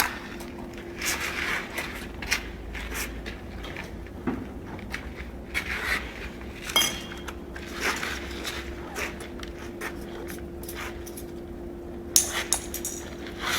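Irregular light knocks and clinks of carpentry hand tools and timber being handled, over a steady faint hum.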